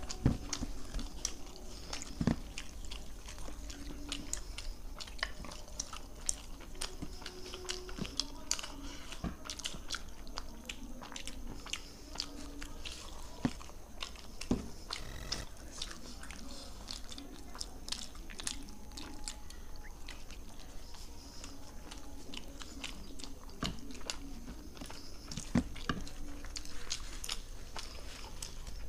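Two people chewing mouthfuls of roti and palak paneer close to the microphone: a steady run of small mouth clicks and smacks, with a few brief low hums.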